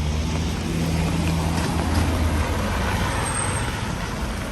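A large road vehicle's engine hums low and steady close by, fading after about two and a half seconds, over a continuous hiss of rain and traffic.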